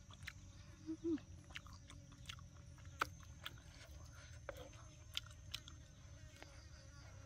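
A person chewing and eating cooked chicken close to the microphone: scattered soft mouth clicks and smacks, with a brief low hum about a second in.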